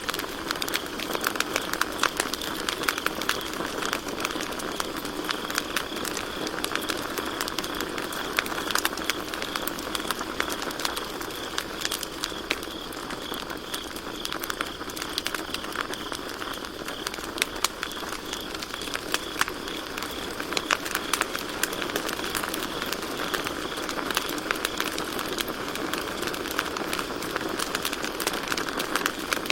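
Campfire crackling with irregular sharp pops, over crickets chirping steadily in a high-pitched, pulsing trill.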